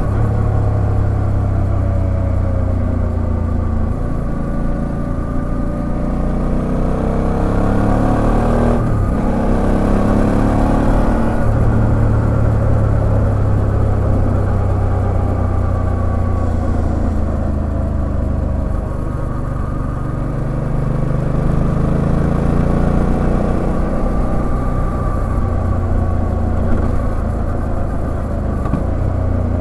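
Suzuki V-Strom 650XT's 645 cc V-twin engine running under way, its pitch rising and falling with the throttle, with a brief dip about nine seconds in.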